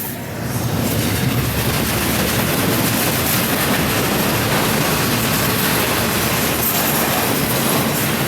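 A train rolling past: a steady rumble and rattle of wheels on the rails that swells about half a second in and then holds.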